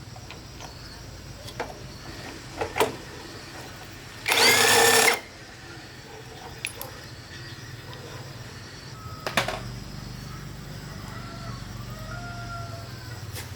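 A power tool running in one short burst of about a second, its pitch shifting, amid scattered clicks and knocks of hand tools on metal parts.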